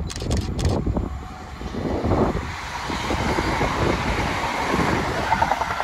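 ScotRail Class 170 Turbostar diesel multiple unit approaching and passing close by: a rushing rumble of engine and wheels on the rails that grows louder from about two seconds in and stays strong to the end. A few sharp clicks sound in the first second.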